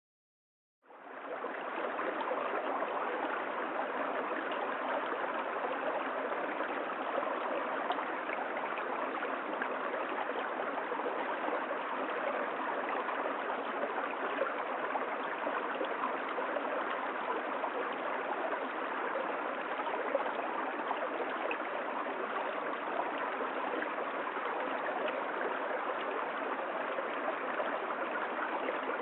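Steady rush of water from a waterfall, starting about a second in and holding even throughout.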